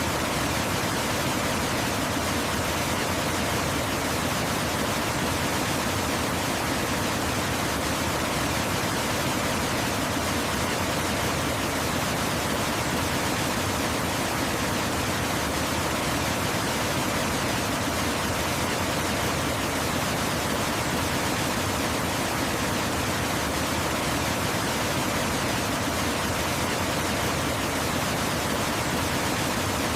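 Waterfall: falling water making a steady, unbroken rush of noise, even from low to high with no changes.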